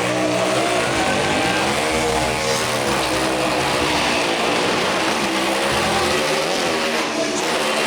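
Motorcycle engine revving as it rides around a wall of death, its pitch rising and falling repeatedly.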